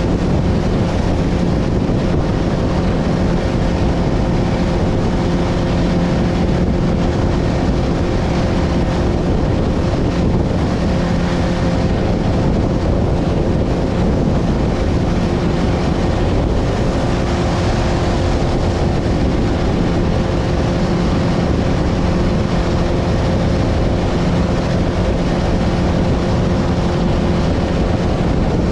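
Boat motor running steadily under way, a constant engine hum, with strong wind buffeting the microphone over it.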